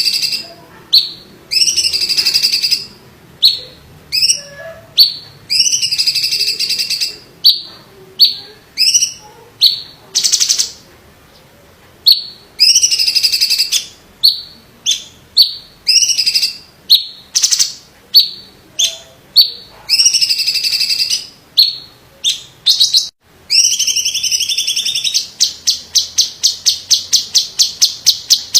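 Cucak cungkok (green leafbird) singing loud, repeated high whistled phrases with short gaps between them. Near the end it breaks into a fast rattling run of short notes, about five a second.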